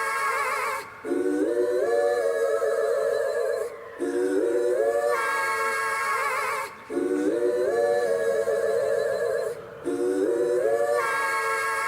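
Wordless sung vocal harmonies open a rap track. A short phrase climbs in steps and is answered by a higher, wavering phrase, and the pair loops about every three seconds with brief breaks between.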